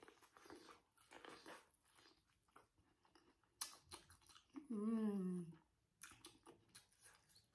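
Faint close-up chewing of sweet corn bitten off the cob, with scattered small mouth clicks. About five seconds in, a short hum from the eater that falls in pitch.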